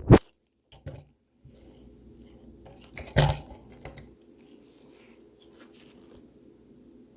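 Small clicks and knocks of tools being handled on a soldering workbench: a sharp click at the start, a couple of light taps just under a second in, and a louder knock about three seconds in, over a faint steady hum.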